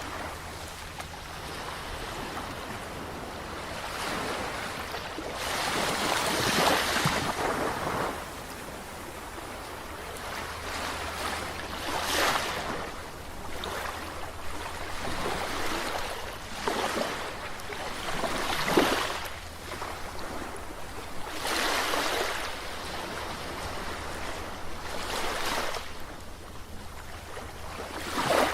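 Ocean waves breaking and washing on a shore, the surf swelling and fading every few seconds, with the biggest wash about six to seven seconds in.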